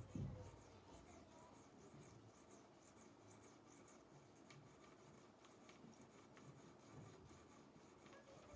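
Near silence, with faint light scratching.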